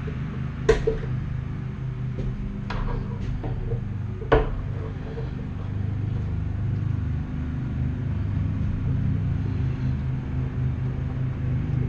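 A few sharp metallic clinks and knocks, about four in the first few seconds, over a steady low hum in a workshop.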